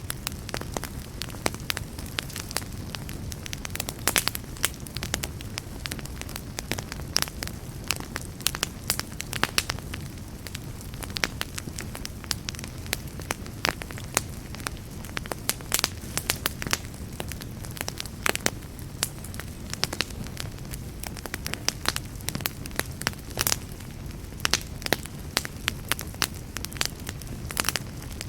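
Wood fire crackling: a steady low rumble of flames with frequent sharp pops and snaps coming at irregular intervals.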